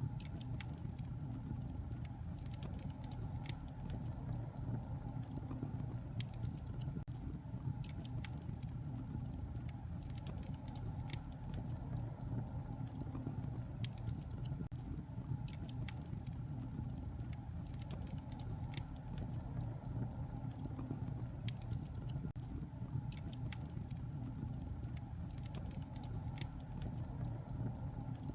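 Wood fire in a fireplace crackling, with frequent irregular snaps and pops over a steady low rumble of flames.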